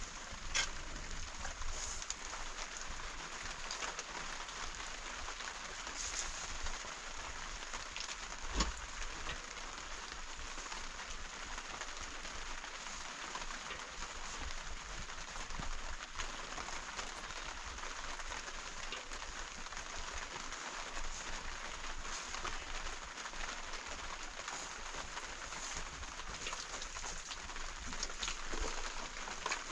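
Steady rain falling, an even hiss with faint scattered drop ticks, and a single sharp knock about eight and a half seconds in.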